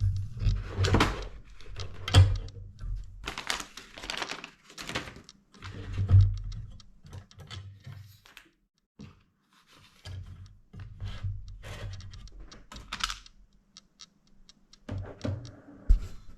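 Irregular clicks, taps and dull knocks of plastic and metal laptop parts being handled and set down on a work surface during disassembly, with a few louder thuds.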